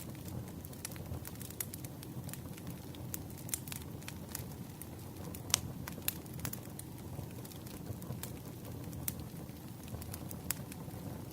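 Wood campfire burning: a steady low rumble with irregular sharp crackles and pops, two louder pops about five and a half and six seconds in.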